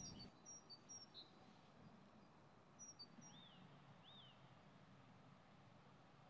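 Near silence with faint, high bird chirps: several short ones in the first second or so, then two small arching chirps around the middle.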